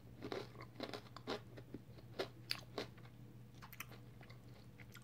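A person chewing a bite of chocolate bar, with faint, irregular crunches that come thickest in the first three seconds and then thin out.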